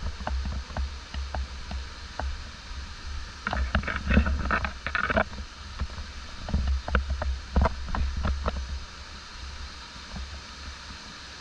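Wind buffeting the microphone in low rumbles, with scattered clicks, knocks and scrapes of footsteps on slippery stream rocks and a denser scuffle about four seconds in. The rush of the stream runs underneath and is all that remains near the end.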